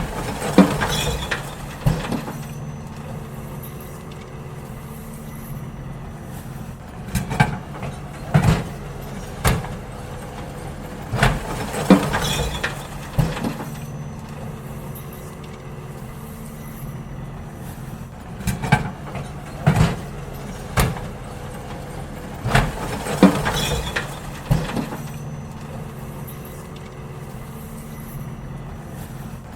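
Garbage truck working: its diesel engine runs steadily while bins are emptied, with clusters of sharp clanks and knocks from the bins and lifting gear every few seconds.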